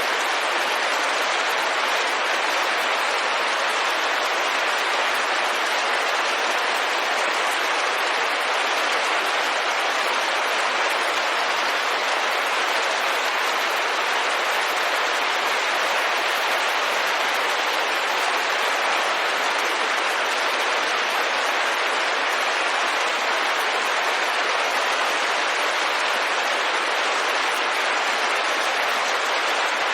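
Steady rain falling on a window, an even hiss that holds at one level without breaks or single drops standing out.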